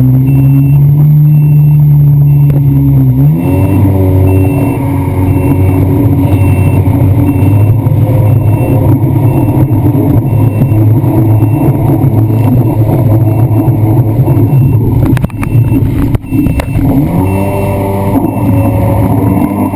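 Jet ski engine running hard: its note drops at the start, climbs back up about three seconds in and holds steady under a rushing noise, then eases off briefly near the end of the ride segment and revs up again.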